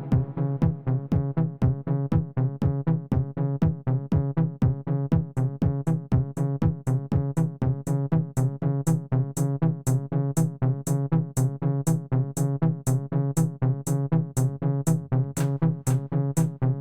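Electronic dance beat from a Roland T-8 drum machine: a steady, fast drum pattern over a held, pitched bass line, with bright hi-hat ticks joining about five seconds in and growing louder.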